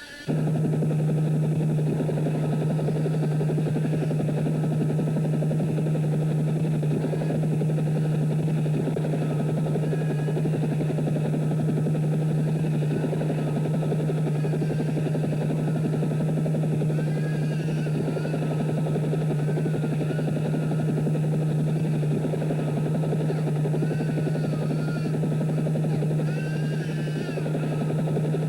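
Helicopter running with a steady, unbroken low drone. Faint wavering higher-pitched sounds drift over it in the second half.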